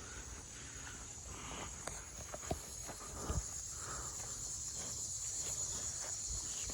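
Insects trilling in a steady, high-pitched outdoor chorus, with scattered footsteps and small knocks on the trail.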